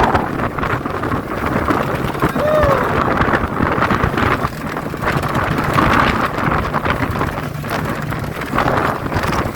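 Fishing boat's engine running with a steady low hum, under heavy wind buffeting the microphone and the rush of sea water.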